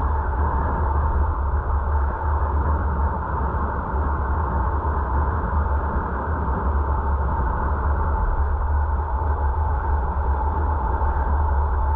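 Steady road and wind noise of a moving car, picked up by a dashcam: a constant low rumble with a hiss over it and no change in level.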